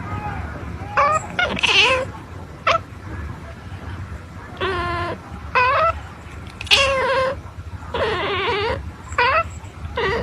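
A kitten meowing over and over, about eight high-pitched calls of a half-second or so each, some rising and falling in pitch.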